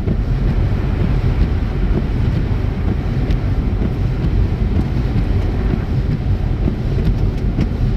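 Steady road noise inside a moving car: tyres rolling on a snowy road and the low rumble of the car, with no changes or distinct events.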